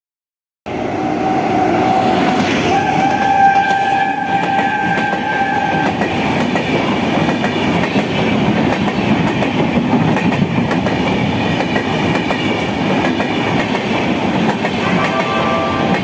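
Indian Railways express train running past at speed: a steady rumble and clatter of wheels over the rails, with the locomotive's horn held for about five seconds near the start and sounding again near the end.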